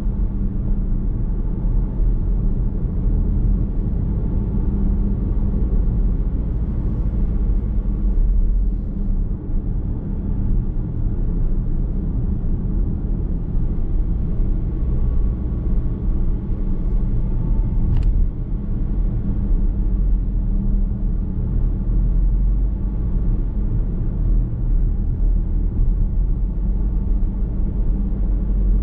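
Car driving along a road, heard from inside the cabin: a steady low rumble of tyre and road noise with the drivetrain underneath. A single sharp click about eighteen seconds in.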